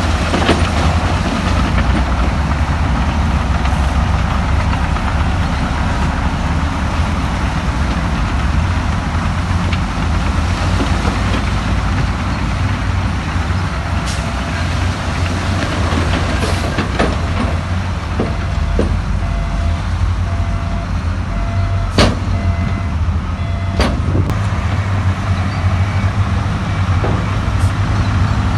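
Heavy diesel earthmoving machinery running steadily, with a few sharp knocks, the loudest about three-quarters of the way through. Faint intermittent beeping comes in around the middle.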